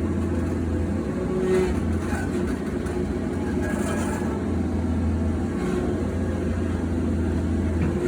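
Diesel truck engine with a newly replaced turbocharger, running steadily with a constant low drone and a steady whine above it.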